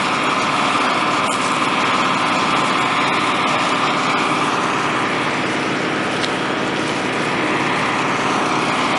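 Four water pumps' small engines running steadily, pumping water into an 8 ft AquaDam to fill it.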